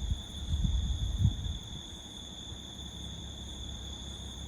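Wind buffeting the microphone in low rumbling gusts for the first second and a half, then a steadier low rumble, over a constant high, steady insect trill.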